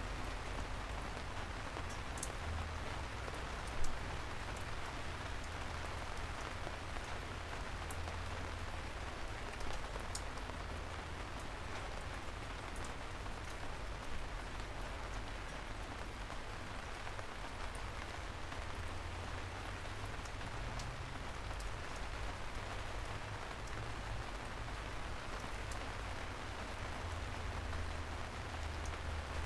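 Steady rain falling, an even hiss with scattered sharp drop impacts, one louder than the rest about four seconds in.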